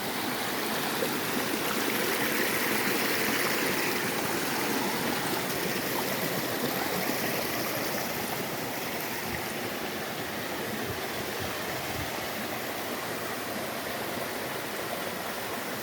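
Stream water running steadily over rocks, a continuous rushing noise that swells slightly a few seconds in and then eases.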